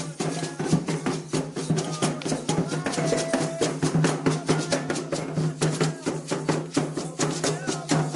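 Candomblé ritual music: drums and rattles keeping up a fast, dense rhythm of many strikes a second.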